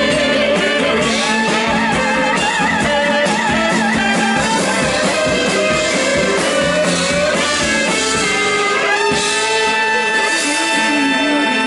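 Live blues-rock band playing an instrumental passage, with a sustained lead line that wavers in a wide vibrato for a couple of seconds early on.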